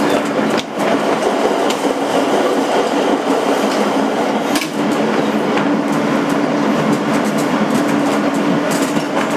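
A 2008 Kawasaki R160B subway car with Alstom ONIX AC propulsion running at steady speed between stations, heard from inside. Wheels rumble on the rails with a steady low hum and a few sharp clicks over rail joints.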